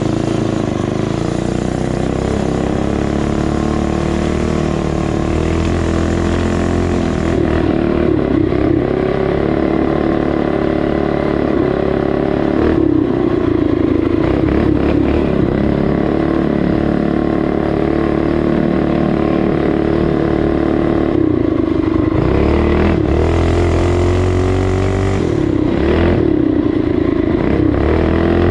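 Small single-cylinder four-stroke mini bike engines running under way at a fairly steady cruising throttle, the engine pitch easing and picking up again a few times.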